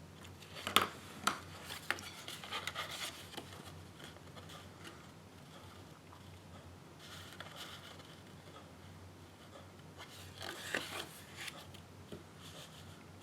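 Paper and card stock being handled on a craft table: a few sharp clicks about a second in, then rustling and rubbing of paper, with another cluster of clicks and rustles near the end.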